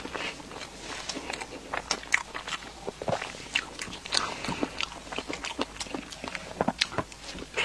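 Close-up mouth sounds of eating pastry: bites and chewing with many sharp, irregular small clicks and crackles.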